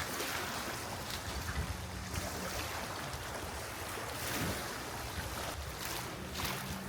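Sea waves washing on a cove shore, a steady rushing with wind on the microphone, under a faint steady low hum.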